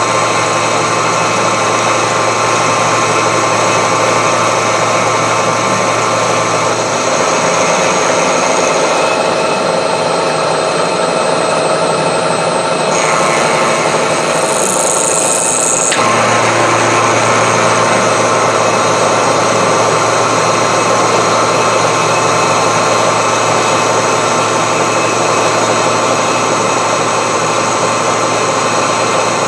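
Milling machine running a 10 mm roughing end mill at about 1750 rpm, chewing a slot into a hardened steel wood-chipper blade, a steady machining whine with vibration. The low hum fades about a quarter of the way in and comes back abruptly about halfway through.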